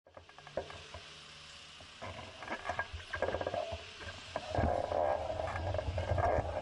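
Bicycle rattling and clicking as the ride gets under way. A louder, steady rumble of road and wind noise comes in about two-thirds of the way through.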